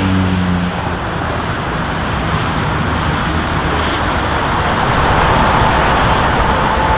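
Jet engine noise from a Boeing 777F freighter's twin GE90 turbofans: a steady, loud rush, with a faint whine coming through near the end.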